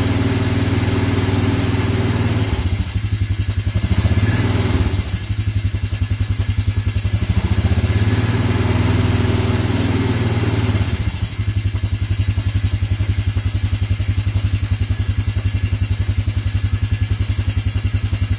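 Cold engine idling unevenly after a cold start, dipping twice in the first five seconds, then about 11 seconds in dropping into a slower, lumpy idle with evenly spaced pulses.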